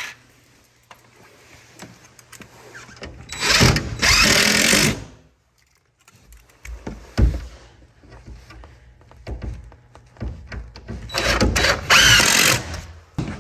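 Power driver running twice, about a second and a half each time, driving screws into the cat house's wall panel. A single sharp knock comes between the two runs.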